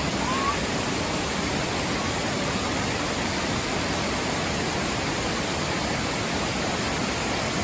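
Waterfall rushing in a steady, even roar of falling water, with one faint short rising chirp about half a second in.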